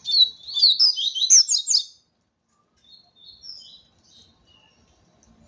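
A yellow-bellied seedeater (papa-capim) singing in full form: a loud, fast, twittering phrase of rapid high notes for about two seconds, then a few softer, scattered notes.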